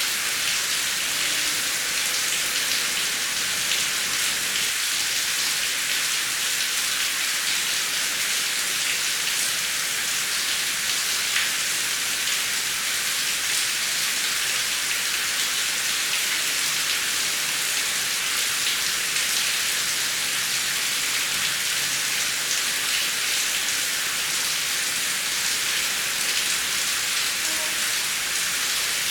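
Heavy rain falling steadily: an even, high hiss with the patter of individual drops.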